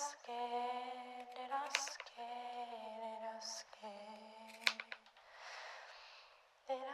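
A woman's voice singing sustained wordless notes, about a second each and each a little lower in pitch than the last, then a long audible in-breath near the end.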